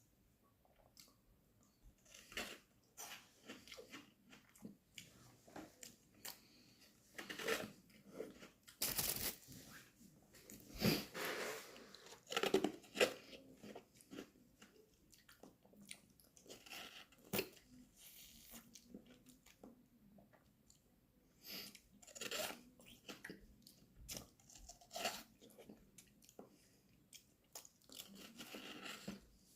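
Close-up sounds of a person biting and chewing a frozen homemade strawberry lemonade popsicle: irregular crunches and crackles of ice being bitten off and chewed, loudest about ten to thirteen seconds in.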